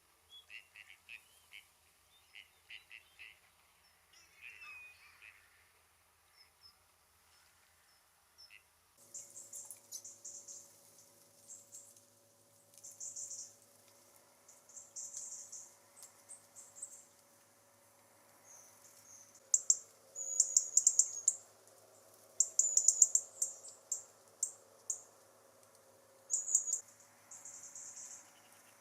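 Wild birds calling: a run of short repeated calls for the first nine seconds, then, after an abrupt change, rapid high-pitched chirps and twittering in bursts over a faint steady hum.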